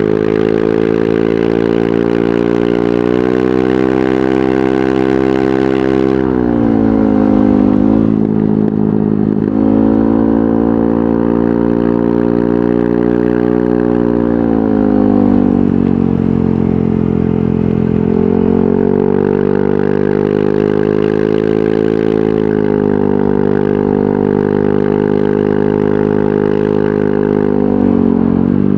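Yamaha NMAX 155 scooter's single-cylinder four-stroke engine running through an aftermarket VMAX Onyx muffler. The engine note rises a little about three seconds in and drops about six seconds in. It climbs again around ten seconds, falls again around fifteen seconds, then holds fairly steady with small swells.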